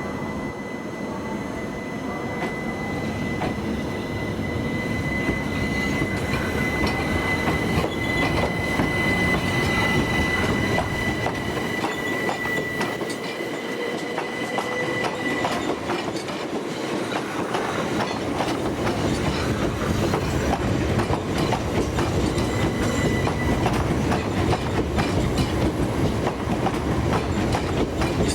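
Electric multiple-unit train rolling slowly, its wheels clicking over rail joints and points, growing louder over the first several seconds. A thin, steady high wheel squeal runs through the first half, fades out, and returns briefly near the end.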